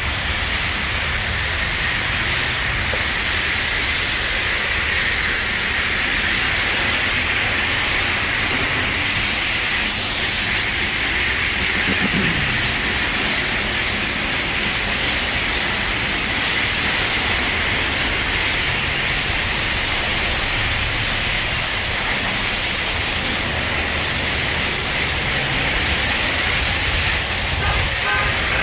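High-pressure water jets of a touch-free automatic car wash blasting the vehicle: a steady, loud hiss of spray with a low rumble underneath.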